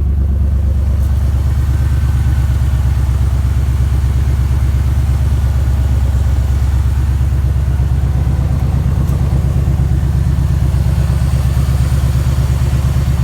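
1996 Ford Explorer engine idling steadily while it warms up after a cold start, its exhaust running without catalytic converters, giving a low, even pulse.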